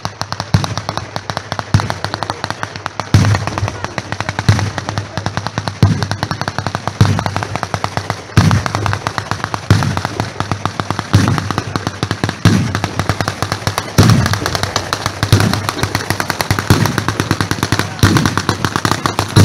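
Fireworks going off nonstop: a dense, rapid crackle of many small cracks a second, with a heavier bang about once a second.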